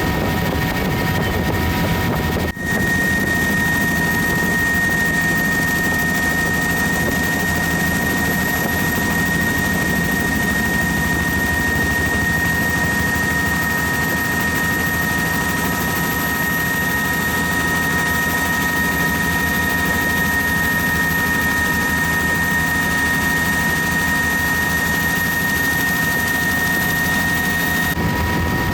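Helicopter in flight, heard from inside its open, doors-off cabin: a steady rush of rotor, engine and wind noise with a constant high whine. There is a brief dip about two and a half seconds in.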